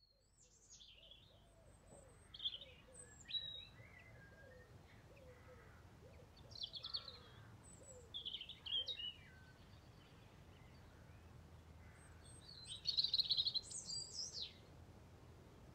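Songbird singing: short bursts of high chirps and trills, the longest and loudest about thirteen seconds in, over a faint steady hiss.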